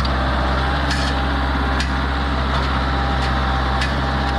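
Tractor engine running steadily at an even speed, with a few faint clicks and knocks over it.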